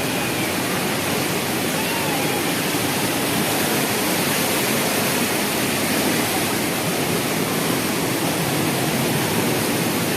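Water from the Rain Oculus, a giant acrylic bowl, pouring down through its centre into the pool below: a steady, even rush of falling water.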